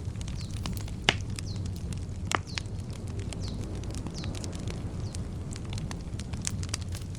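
Campfire crackling: a steady low rumble of burning wood with scattered sharp pops, two louder ones about a second in and about two and a half seconds in.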